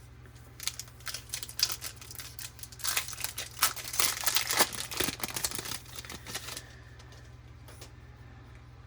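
Foil wrapper of a Topps baseball card pack being torn open and crinkled, a dense run of crackling that peaks in the middle and stops about two seconds before the end, over a steady low hum.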